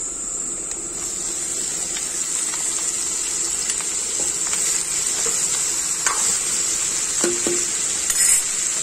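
Chicken liver and gizzard sizzling steadily as they fry in hot oil in a kadai. A spoon scrapes and knocks against the pan a few times as it is stirred, loudest near the end.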